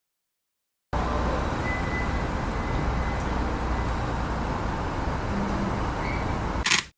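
Steady outdoor rumble and hiss of road traffic, cutting in abruptly about a second in and ending with a short sharp burst near the end.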